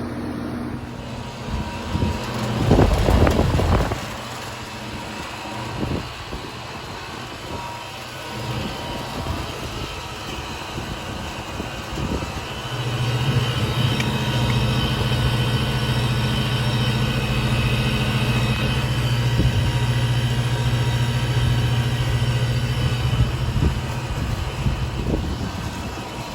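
2019 Amana heat pump outdoor unit running with a steady fan and compressor hum. A brief loud rush comes a few seconds in. About halfway through, the low hum grows markedly stronger and steadier.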